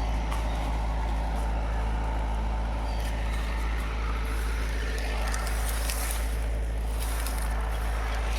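Tractor engine running steadily at an even pitch, with a heavy low rumble underneath.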